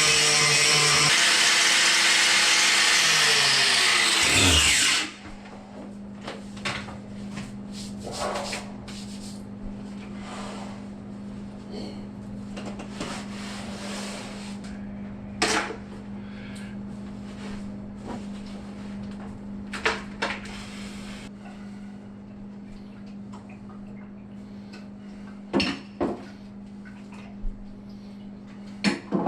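Electric power tool running loudly, then switched off about five seconds in, its motor winding down. After that a faint steady hum remains, with scattered knocks and clicks of handling.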